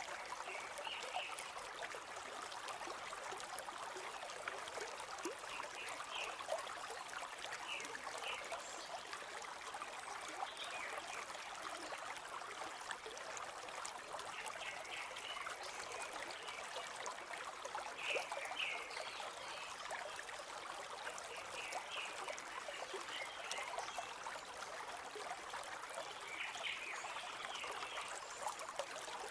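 A river or stream flowing steadily with a trickling, gurgling wash of water. Short bursts of small bird chirps come every few seconds over it.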